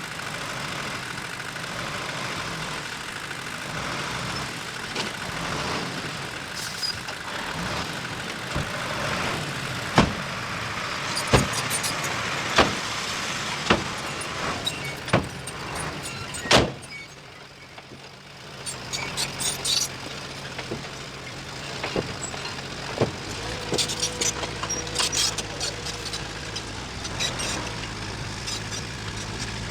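Heavy earthmoving machine's engine running steadily, with a string of sharp metallic clanks about halfway through. The noise drops briefly, then an engine runs on with lighter clicks and knocks.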